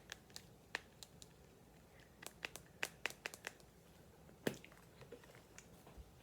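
Scattered light clicks and crinkles of small items being handled, with a louder click about four and a half seconds in.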